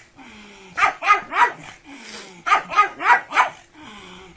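A dog barking in short, sharp barks: three about a second in, then a quicker run of four past the middle.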